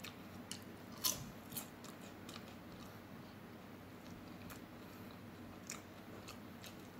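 Faint chewing and wet mouth clicks of a person eating close to the microphone, with a louder click about a second in and a few scattered smaller ones after.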